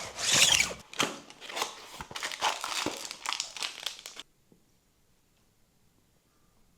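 Crinkling and rustling of packaging being handled, in many quick crackles, stopping abruptly about four seconds in.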